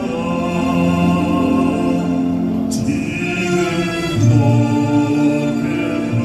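Classical (bel canto) male voice singing a Korean art song in long sustained phrases over accompaniment, with a short break for breath about three seconds in.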